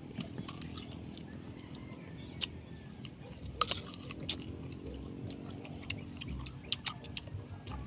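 Crunchy bites and chewing of unripe green mango: sharp crunches scattered irregularly over a steady low rumble.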